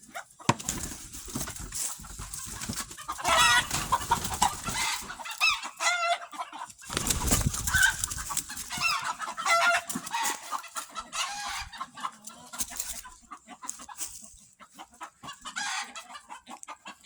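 Rooster clucking and giving several wavering calls in short bouts, with scattered knocks and rustling noises around it.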